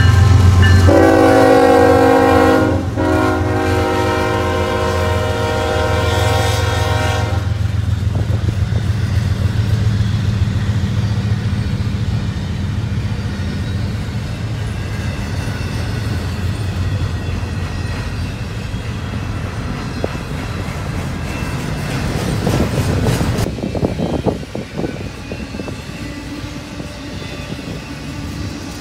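CSX freight train passing close by: the diesel locomotives run past with a heavy low engine sound, and the horn blows one long chord from about a second in until about seven seconds, briefly breaking near three seconds. Then the double-stack intermodal container cars roll by with a steady wheel rumble and clatter, which grows louder for a moment about three-quarters of the way through and then eases.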